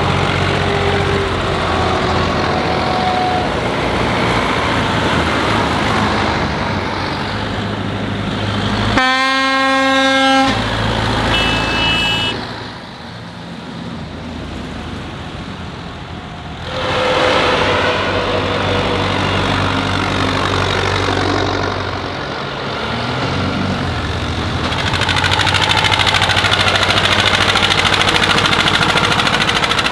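Tractor and truck engines running as they drive past. About nine seconds in, a vehicle horn blasts for about a second and a half, followed by a short higher toot. The engines get louder near the end.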